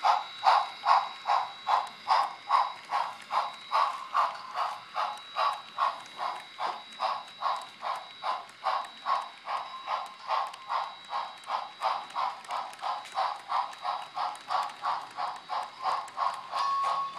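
Steam exhaust chuffing from the sound decoder of an HO-scale Baldwin 2-8-0 Consolidation model locomotive, played through its onboard speaker: an even beat of about two and a half chuffs a second as the engine pulls its train. Near the end the chuffing gives way to the start of a steady steam whistle.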